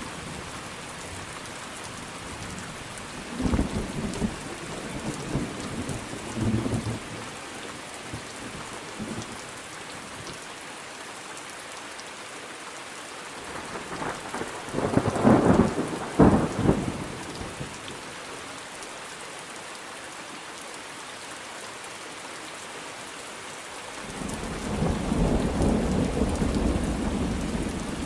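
Thunderstorm: steady rain hissing throughout, with rolls of thunder. A rumble a few seconds in, a loud close crack of thunder about halfway through, and a long low rumble building up near the end.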